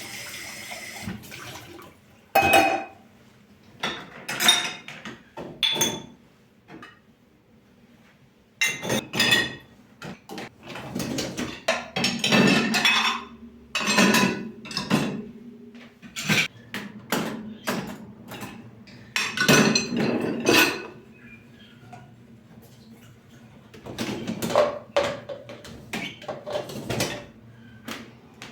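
Dishes and pans clinking and clattering as they are handled, in irregular bursts. A running tap stops about a second in.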